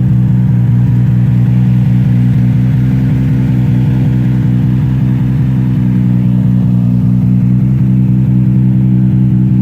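Toyota Supra race car's engine idling steadily and loudly through a worn Veilside exhaust.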